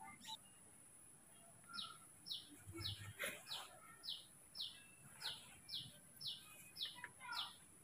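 A bird calling outdoors, a short high note that falls in pitch, repeated evenly about twice a second and starting about two seconds in.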